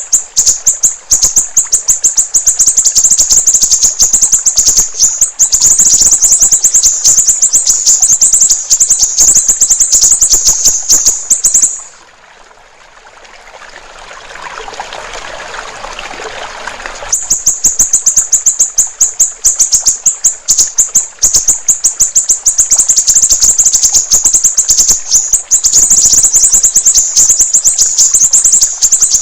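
A siri-siri bird singing a very rapid, high-pitched chattering stream of notes. About twelve seconds in the song stops for some five seconds, leaving only a soft trickling-water sound, and then starts again.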